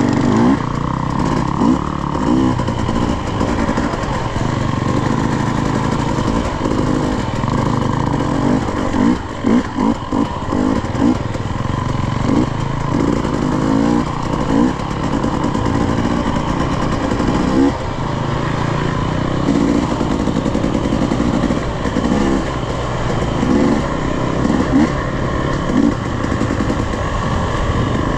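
Dirt bike engine running as it is ridden along a trail, the throttle opened and closed in short bursts several times, with some clatter.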